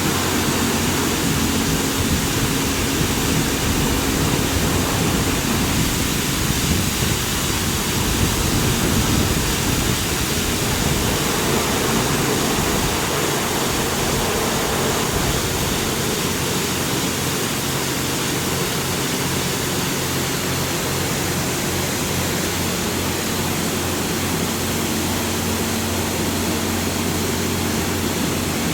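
Touchless automatic car washing machine at work: high-pressure water jets spraying steadily, over a low steady hum from its pump.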